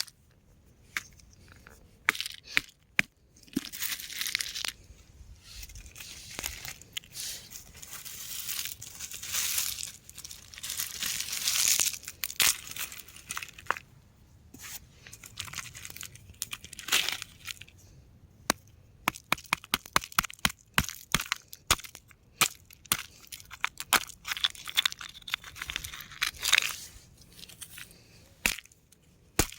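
Rock crumbling and crunching, with long gritty crunches in the first half and then a rapid run of sharp cracks and snaps.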